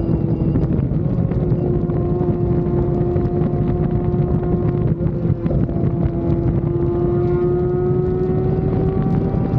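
Sport motorcycle engine running at a steady cruise, its pitch climbing slowly over the second half, under heavy wind rush on the microphone.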